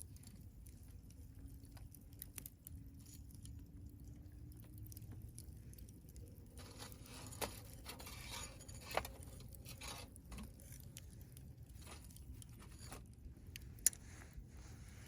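Wood campfire burning, with scattered crackles and pops, a hissing, crackling stretch in the middle and one sharp pop near the end.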